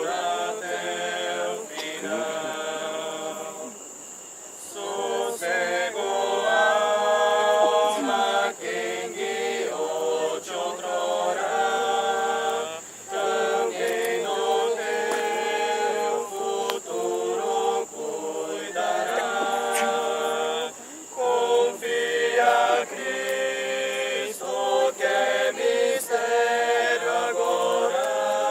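A group of voices singing together in long held phrases, with short pauses between lines.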